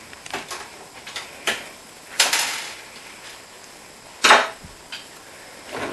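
Hand-tool work on a built-in dishwasher: a few light clicks, then a louder clatter about two seconds in and a sharp metallic knock a couple of seconds later, as the single screw holding the dishwasher to the worktop is undone with a Phillips screwdriver.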